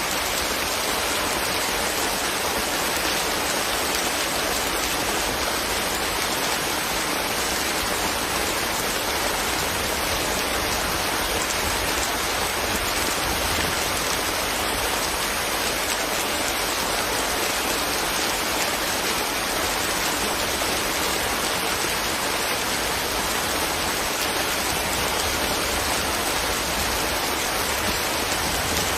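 Steady rain falling, an even hiss of drops with no change in level.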